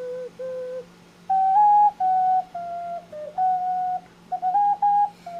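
3D-printed ocarina playing a slow melody of pure, breathy-free whistle-like notes. A low held note and a short repeat come first, then after a brief pause a louder run of higher notes stepping up and down, some held and some short.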